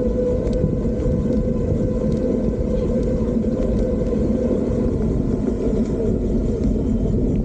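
Wind rushing over the microphone while riding an electric bike, a steady low rumble throughout, with a thin steady whine that fades out about five seconds in.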